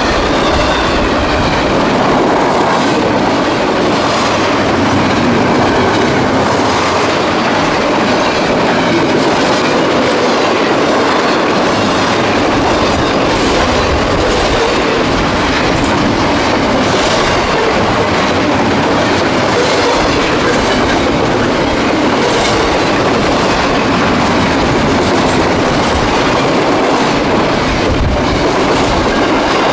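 Double-stack intermodal container train passing close by: a steady rumble of steel wheels rolling on the rails, with clicks as the wheels cross the rail joints.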